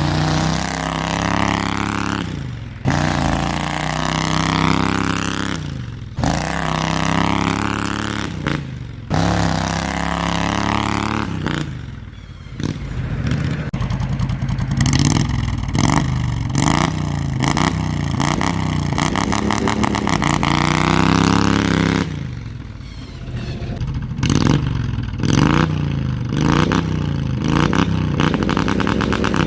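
Modified Briggs & Stratton V-twin engine of a hot-rodded Craftsman LT2000 riding mower being driven hard, revving up and backing off again and again. Its exhaust note climbs in pitch and then drops away several times, with a stretch of quick rev swings in the middle and near the end.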